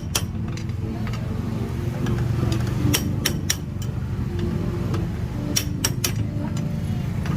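Sharp metallic clicks and clinks of hand tools and parts, in two small clusters of about three each, over a steady low rumble.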